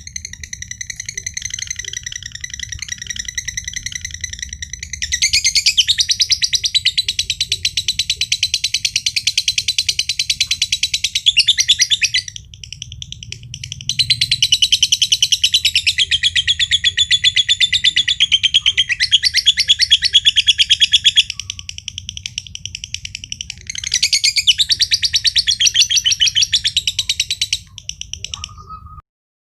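Green (josan) male lovebird giving its long 'ngekek' song: a rapid, continuous high chattering trill in long unbroken bouts. It grows louder about five seconds in, pauses briefly near the middle, and stops abruptly just before the end.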